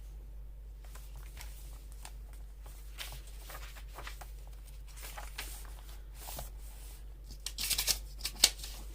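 Paper and journal pages being handled and shifted on a craft table: faint rustles and light taps, a louder paper rustle about three-quarters of the way through, then a sharp tap near the end.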